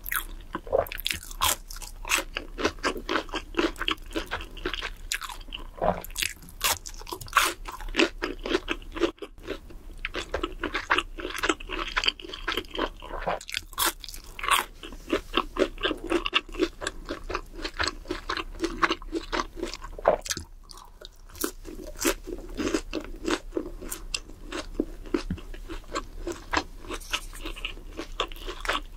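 Close-miked crunching and chewing of fried fast food: a breaded cheese stick bitten and chewed, with rapid crisp crunches coming several times a second and a couple of short pauses.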